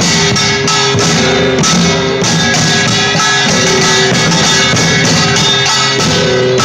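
Loud live band music with strummed guitar over a steady drum beat.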